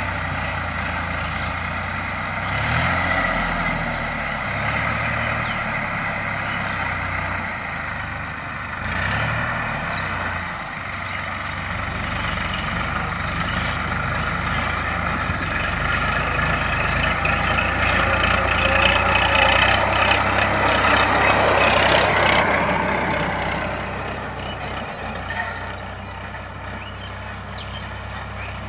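Sonalika DI 745 tractor's diesel engine running steadily, its pitch briefly dipping and rising about three seconds in and again around nine seconds, and growing louder for a few seconds past the middle.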